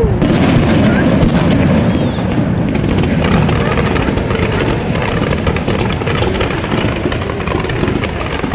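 Aerial fireworks going off in quick succession: a dense, continuous run of booms and crackles with no pause.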